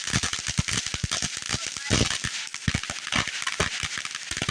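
Consumer fireworks crackling: a dense, irregular rattle of small sharp pops, with a few louder bangs among them.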